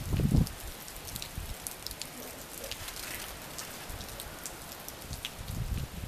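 Rain falling: a steady hiss dotted with many small drop ticks. A low rumble on the microphone swells in the first half-second and again near the end.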